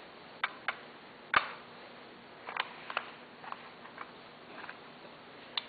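Small toy building blocks clicking and knocking as they are picked up and set down one by one, in an irregular series of light taps with one sharper knock about a second and a half in.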